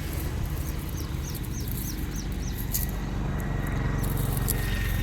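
A steady low rumble, with a bird giving a quick run of six short, high chirps over about two seconds near the start.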